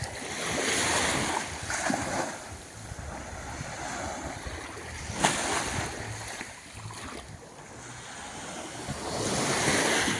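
Sea waves washing onto a sandy beach, swelling near the start and again near the end, with wind buffeting the microphone. A single sharp click about halfway through.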